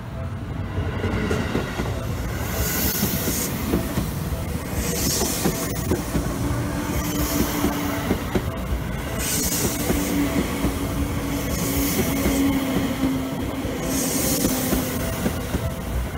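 Seibu 10000 series electric train passing close by, its wheels running on the rails with a surge of rail noise every couple of seconds as each car's wheels go by. A steady low hum runs through the middle of the pass.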